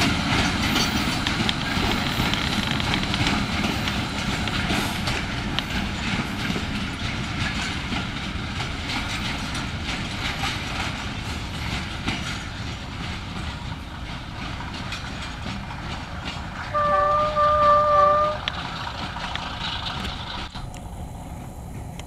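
Train coaches rolling away over the track, their wheel clatter slowly fading as they recede. About two-thirds through, the ALCO diesel locomotive's horn sounds once, a single steady note held for just over a second.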